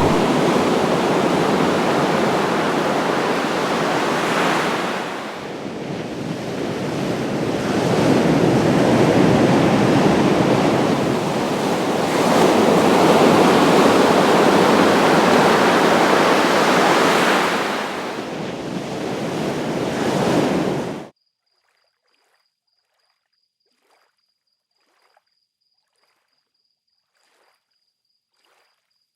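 Ocean surf breaking with wind, a dense rushing noise that swells and eases as waves come in. About two-thirds of the way through it cuts off suddenly, leaving near silence with a few faint clicks and a faint high steady tone.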